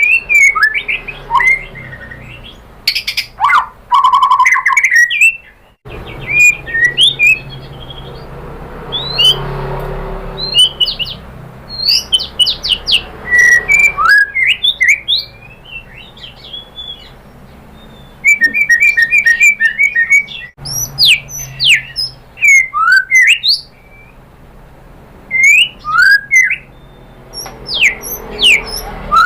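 White-rumped shama (murai batu) singing: loud, varied whistled phrases of quick rising and falling notes and rapid trills, broken by short pauses.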